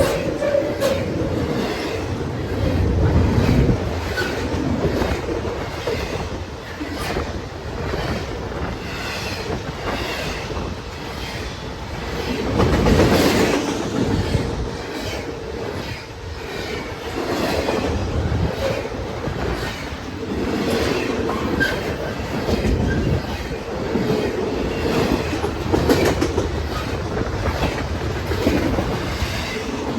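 Railroad freight cars rolling past, wheels clacking over rail joints in a steady rhythm, with intermittent squealing from the wheels.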